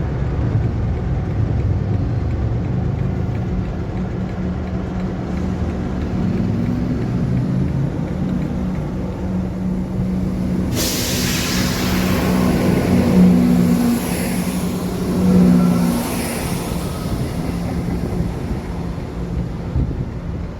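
A train running past: a low engine hum whose pitch steps up and down. About halfway through, a loud hiss of passing noise joins it for several seconds and swells twice.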